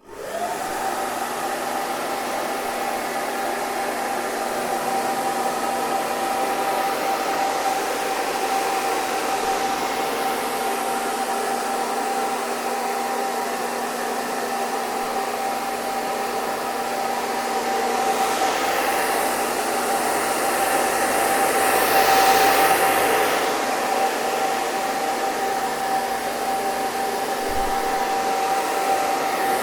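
Hair dryer switched on, its motor spinning up within a second to a steady high whine and lower hum over an even rush of air. The rush swells louder and brighter between about 18 and 24 seconds in, then settles back.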